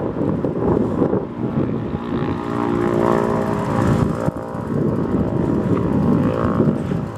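1977 BMW R100/7's air-cooled flat-twin boxer engine running, with a clearer, steadier engine note for a couple of seconds in the middle.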